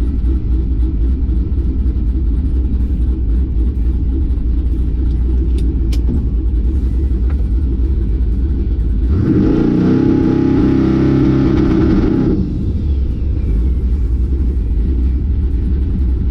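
Steady low rumble of a running vehicle heard from inside the cab. About nine seconds in, a louder engine-like sound with a steady hum rises over it for roughly three seconds, then drops away.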